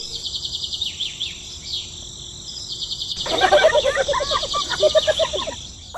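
Birds chirping over a steady high-pitched insect buzz, with a busier flurry of chirps joining about three seconds in.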